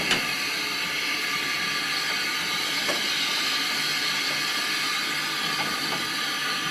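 A steam locomotive, the Andrew Barclay 0-4-0 No. 11, hissing steadily. There is a sharp metallic knock right at the start and a fainter one about three seconds in.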